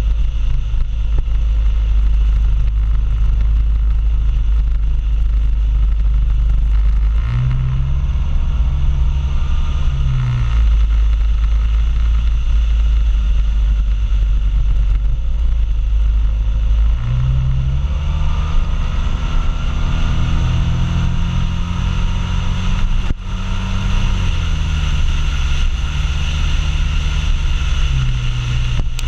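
Motorbike ride heard from the rider's seat: steady heavy wind rush over a running engine. The engine note climbs twice as the bike accelerates, about a quarter of the way in and again through the second half, with a short drop near the end.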